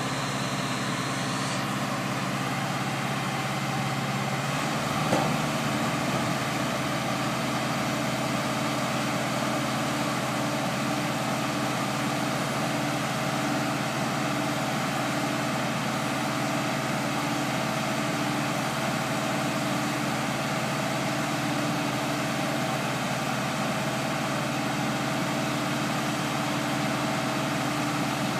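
Engine of a mobile boat hoist running steadily, with a single short knock about five seconds in.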